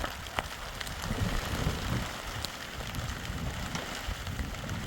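Steady rain, with scattered drops ticking on a surface.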